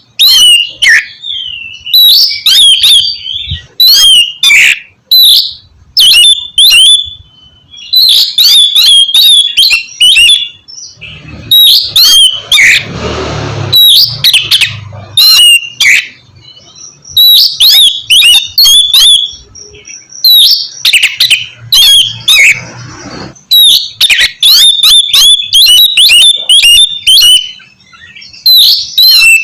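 Oriental magpie-robin (kacer) singing loudly in fast, repeated bursts of high whistled and harsh notes with short gaps between phrases. About a third of the way in, and again around three quarters of the way through, a rushing noise lies under the song for a few seconds.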